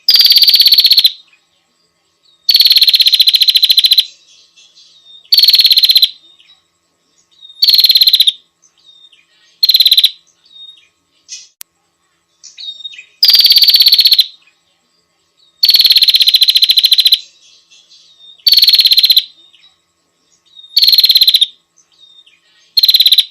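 Female prenjak (prinia) lure call: loud, rapid trills about one to one and a half seconds long, repeated every two to three seconds, with faint short notes between them. This is the call of a female prenjak used to draw in males.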